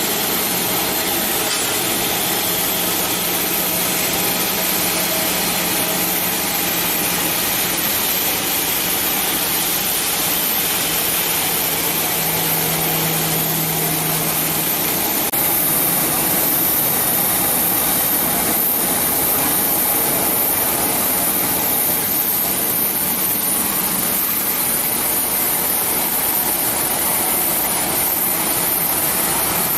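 Boeing 737-900ER's CFM56-7B turbofan jet engines running at taxi power, a steady high whine over a broad rush. About halfway the whine grows a little brighter and louder, and a low hum underneath stops.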